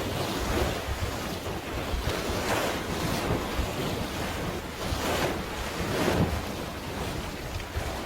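Sea waves washing in irregular surges, with wind rumbling on the microphone.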